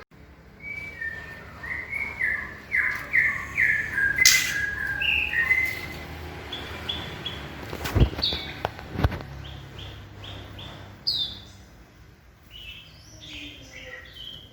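Young white-rumped shamas calling in runs of short, quick chirps. Two sharp knocks about a second apart come midway.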